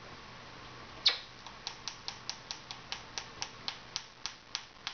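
A run of short, sharp clicks at about four a second, starting with a single louder click about a second in and continuing steadily.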